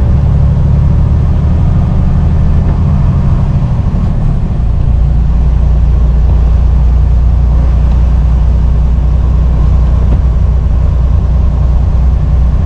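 Semi truck's diesel engine and road noise heard from inside the cab while driving, a loud steady low drone. The engine note shifts lower about four and a half seconds in.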